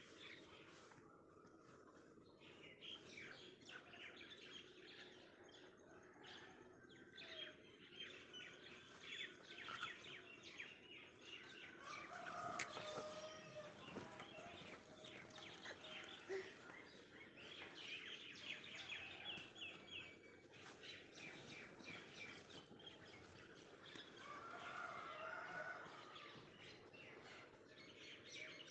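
Faint birds chirping and calling over a low steady hiss, with a couple of louder calls midway and near the end.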